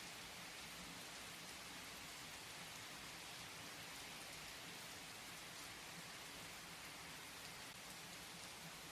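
Steady, faint rain falling, an even hiss with a few single drops ticking, with no thunder in this stretch.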